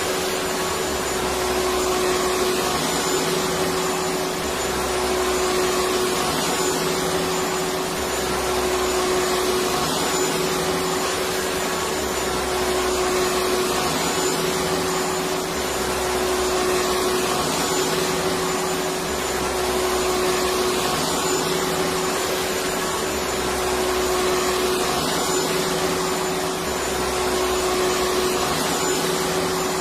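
Electric vacuum cleaner running steadily: an even rushing noise with a constant hum.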